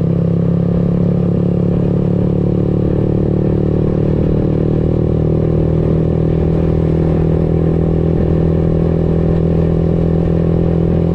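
Motorcycle engine running steadily at an even speed, with no revving up or down.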